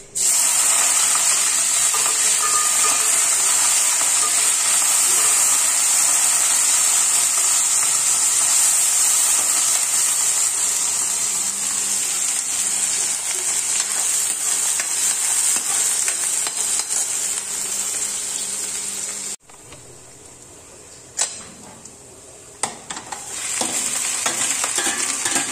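Chopped onions and green chillies sizzling loudly in hot oil in a steel kadai, stirred with a spoon; the sizzle starts suddenly as they hit the oil. About 19 seconds in the sound cuts off abruptly to a quieter stretch with a couple of clicks. Sizzling resumes near the end as fenugreek (methi) leaves are tipped into the pan.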